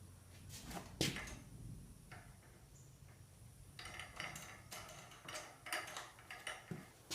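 Metal clanking and rattling of a wheeled jack being scooted along under a load: a sharp knock about a second in, then a run of quick rattling clanks from about four seconds in.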